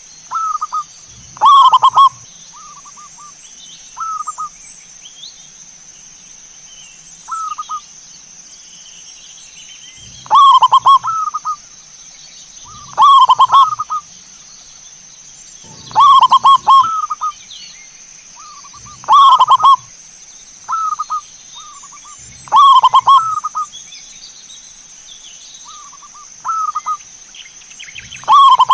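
Zebra dove (perkutut) cooing: a rolling, multi-note coo phrase repeated every two to three seconds, with a few shorter single coos between, over a steady high-pitched whine.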